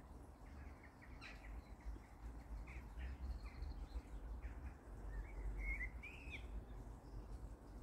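Small songbirds chirping faintly in short scattered notes, with a brighter warbled phrase about five seconds in, over a low, steady rumble.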